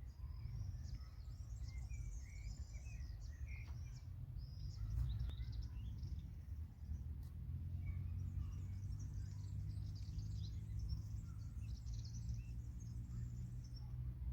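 Small birds chirping and trilling in short high calls, over a steady low rumble.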